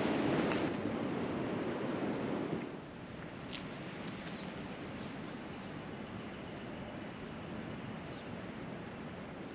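Steady outdoor rushing noise that drops to a quieter level about three seconds in, with a few faint, short, high bird chirps over it in the middle.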